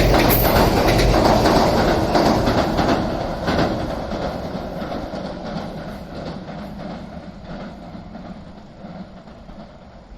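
A train passing close by, its wheels clattering over the rail joints, loud for the first few seconds and then fading away as it moves off.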